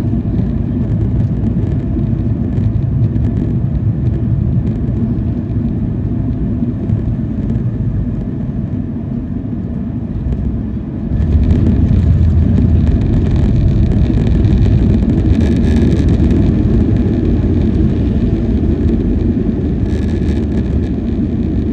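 Cabin noise of a Boeing 737-800 heard from a window seat: steady engine and airflow noise that steps up suddenly and grows louder about eleven seconds in.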